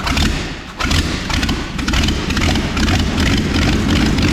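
1984 Chevy C20 truck engine running right after it fires up, with no exhaust manifolds fitted, so the exhaust pulses come straight out of the open ports. It sags briefly about half a second in, then keeps running.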